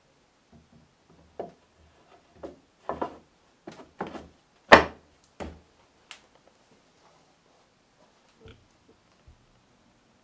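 Beech boards being handled and set down on a wooden workbench: a series of knocks and short scrapes of wood on wood, the loudest knock a little under five seconds in, then two faint knocks near the end.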